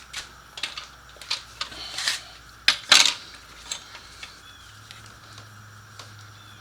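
Metal hand tools and parts clinking and clattering in a run of sharp, separate knocks, loudest about three seconds in, then a single faint click near the end.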